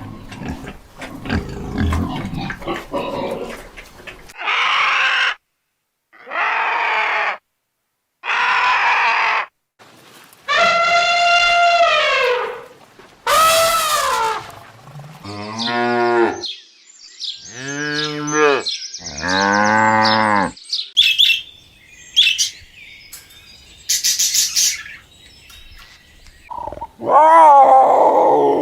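A series of different animal calls one after another, each lasting a second or two with short gaps between, several of them drawn-out pitched cries that fall in pitch.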